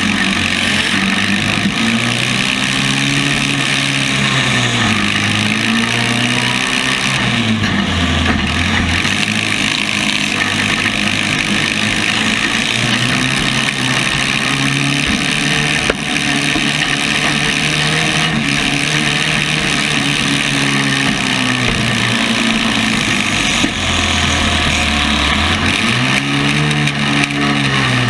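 Compact-car engines revving, their pitch climbing and falling again every few seconds over a loud, steady din of engine noise.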